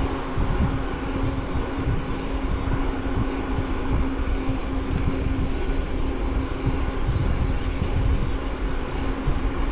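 Bicycle riding noise picked up by a bike-mounted camera: tyres rolling and wind buffeting the microphone in an uneven low rumble, with a steady hum underneath.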